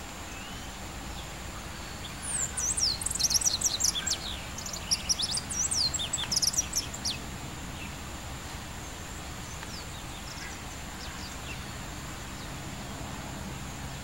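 A bird chirping: a quick run of high, sweeping chirps lasting about five seconds, starting about two seconds in, with a few faint chirps later, over steady outdoor background noise.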